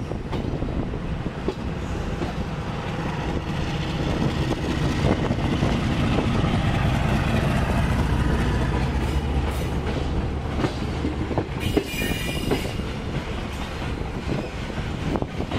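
Train running on the rails: a steady rumble and clatter of steel wheels, with a container freight train passing close alongside. A brief high wheel squeal comes about twelve seconds in.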